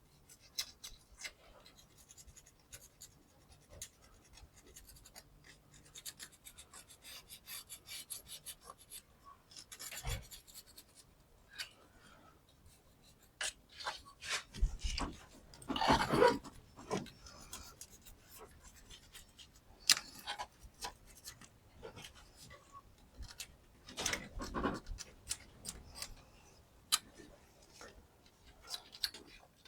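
Hand tools and metal parts being worked on a car engine: scattered clicks and knocks, a run of quick ticks, and a few louder scraping bursts.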